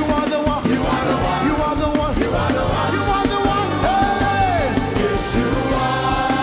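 Live worship band playing loud, steady music with voices singing over it.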